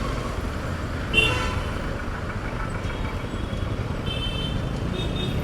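Road traffic with a steady low rumble, and short vehicle horn honks about a second in and twice more near the end.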